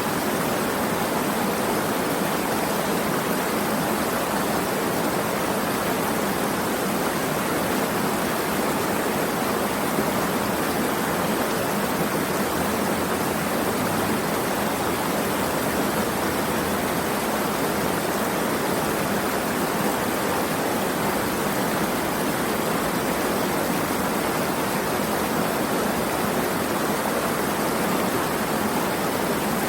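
Steady, unbroken rush of running water, an even hiss with no separate splashes or drops standing out.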